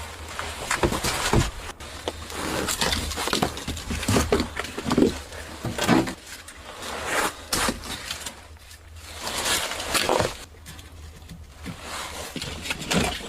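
Irregular knocks, scrapes and rustles of leftover pieces of firewood being handled at an old wood stove.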